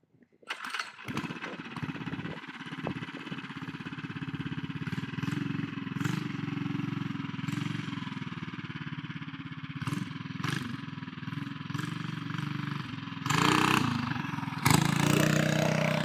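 Tillotson 212cc single-cylinder four-stroke engine on a mini bike starting about half a second in and settling into a steady idle, then throttled up louder twice near the end.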